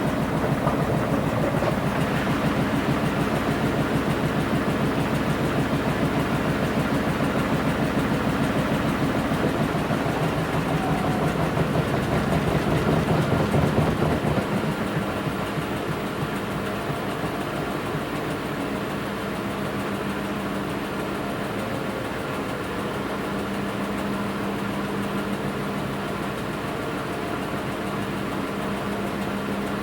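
Washing machine running mid-cycle: the motor and turning drum give a dense, fluttering rumble. About halfway through it gets quieter and settles into a steadier hum.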